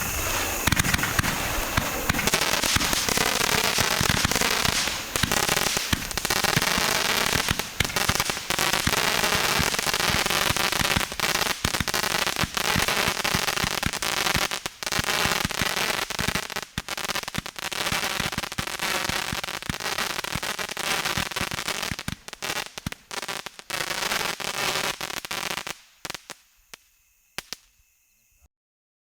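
Dense, continuous crackling and popping, many sharp cracks packed together. It thins to a few scattered pops about 26 seconds in, then stops.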